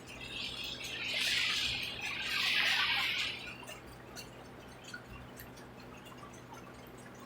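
Rainwater dripping in small scattered ticks after a storm, with a rushing, splashing hiss that swells twice over about three seconds near the start before dying back to the drips.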